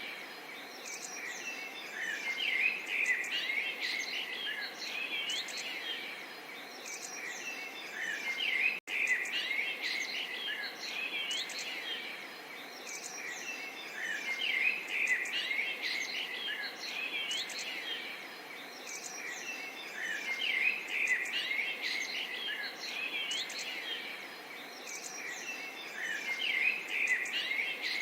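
A chorus of small songbirds chirping and twittering without pause over a faint babble of running water. The birdsong swells and eases about every six seconds, and it drops out for an instant about nine seconds in.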